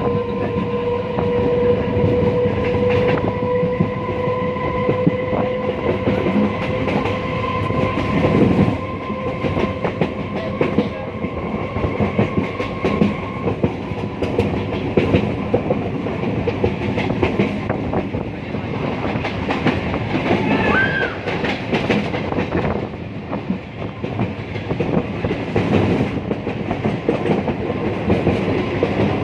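Passenger train running along the track, its wheels clacking over the rail joints. A steady tone sounds through roughly the first half and fades out.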